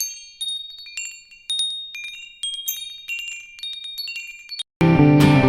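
Wind chimes tinkling, clusters of high ringing strikes every half second or so. They stop abruptly, and loud music with guitar and drums cuts in near the end.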